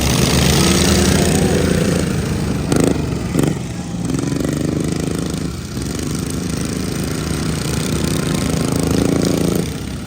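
Racing riding lawn mowers' engines running hard, swelling loud in two waves as the pack goes by. There are two sharp knocks about three seconds in, and the engine noise drops off near the end.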